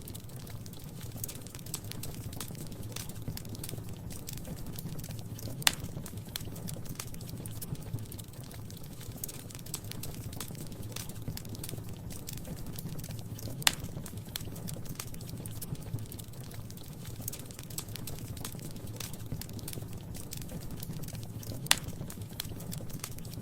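Wood fire crackling in a fireplace: a steady low rumble under a constant scatter of small crackles, with three sharp, louder pops spaced well apart.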